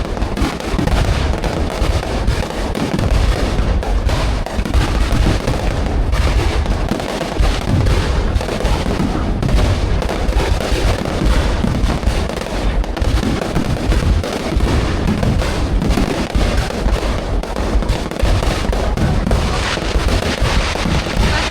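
Fireworks going off in a continuous dense barrage: many overlapping sharp cracks and deep booms with no gap between them.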